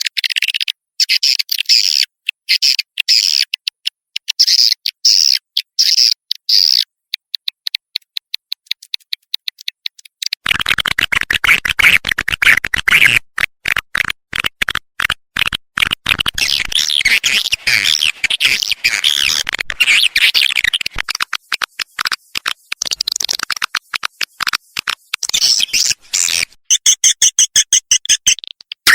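Recorded swiftlet calls played as a lure for swiftlet houses: rapid trains of short, high chirps and clicks. About ten seconds in they thicken into a dense twittering chorus, and near the end comes a run of quick, evenly spaced pulses.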